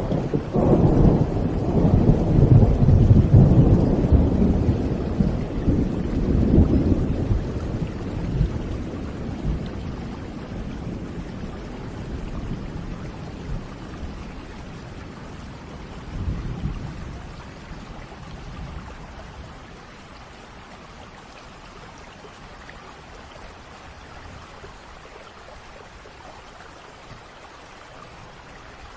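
A long roll of thunder that starts suddenly, rumbles loudest over the first several seconds and dies away over about twenty seconds, with a smaller rumble about halfway through. Steady rain falls throughout and is left alone near the end.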